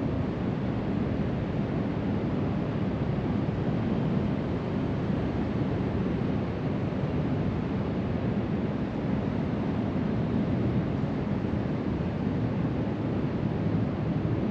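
Ocean surf breaking along the shore as a steady, even wash, mixed with wind on the microphone.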